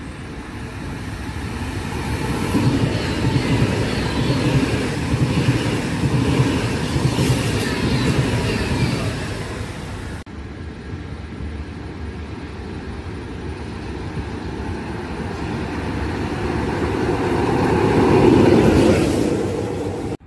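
A high-speed electric passenger train passing through a station at speed, its rolling noise swelling and fading over several seconds. After an abrupt cut about halfway through, an FS E652 electric locomotive running light, with no train behind it, approaches and passes, growing loudest near the end before cutting off.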